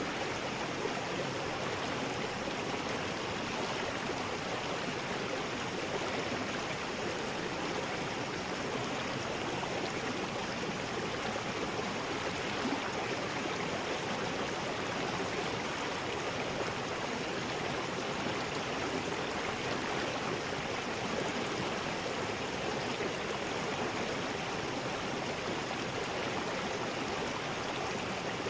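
River rapids: water rushing steadily over rocks.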